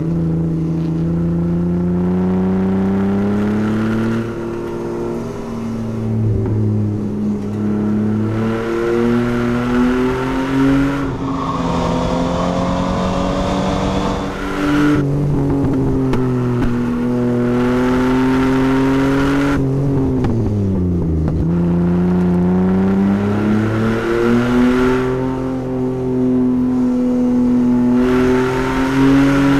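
Chevrolet Omega 3.0's straight-six engine under hard driving on a track lap, its note climbing and falling with throttle and gear changes. About twenty seconds in it drops sharply, as when slowing for a corner, then climbs again.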